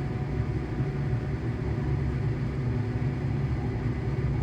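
ScotRail Class 385 electric multiple unit heard from inside the carriage: a steady low traction-motor hum over the rumble of the running train.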